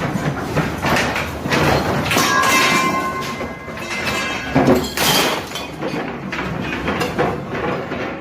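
A building shaking in an earthquake: a continuous loud rumble with dense rattling, knocks and bangs of objects and fittings moving. A brief high tone sounds over it about two to three seconds in.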